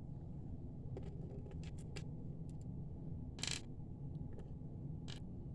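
Small stone beads clicking as they are set down on a bead board: scattered light taps and a brief louder rattle about three and a half seconds in, over a steady low hum.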